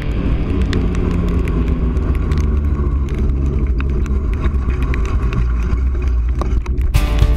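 Steady low rumble of street and wind noise from riding a bicycle in the rain, with scattered sharp ticks. Guitar music cuts in abruptly near the end.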